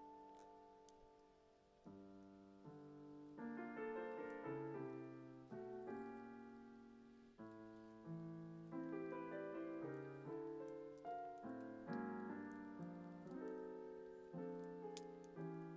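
Gentle background piano music: chords struck and left to ring, changing about once a second.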